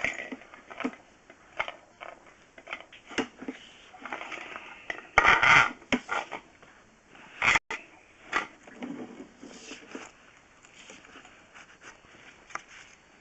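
Sewer inspection camera head scraping and knocking as it moves along the pipe: irregular clicks and scrapes, louder for a moment about five seconds in and again a little later.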